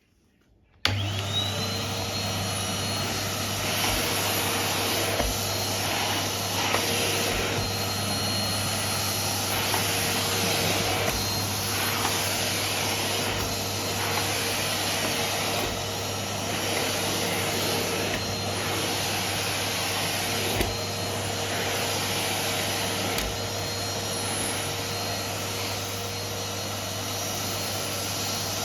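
Vacuum cleaner switched on about a second in, its motor whining up to speed and then running steadily with a loud suction rush, the sound shifting slightly as it is pushed around.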